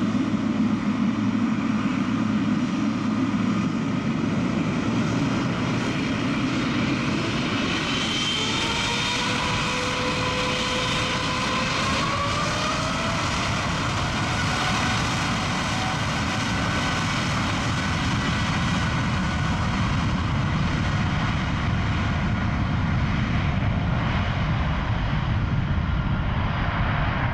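Boeing 777 jet engines running with a steady, dense rushing noise. About a third of the way in, thin engine whines rise in pitch as the engines spool up, then hold steady.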